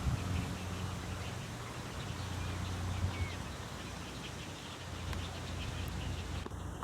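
Birds calling at a waterbird nesting colony: many short, high calls repeated over a steady low hum. The sound changes abruptly near the end.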